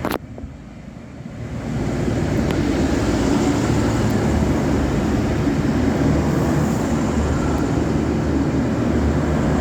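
Diesel passenger railcar train passing close by as it pulls into the platform: its engine and wheel rumble builds over the first two seconds, then runs loud and steady. A sharp click comes right at the start.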